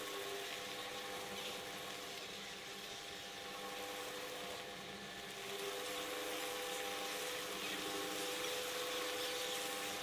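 Electric shredder running steadily, its motor giving a constant hum with a few fixed tones.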